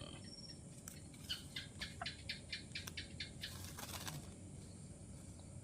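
White-rumped shama bathing: a quick run of about ten wing-flutters and splashes, about four a second, lasting a few seconds.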